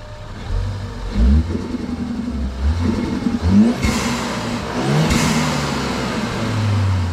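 Ford Focus ST's turbocharged engine revved in about three quick throttle blips through the stock exhaust, with the blow-off valve hissing as the throttle snaps shut, most plainly around four and five seconds in.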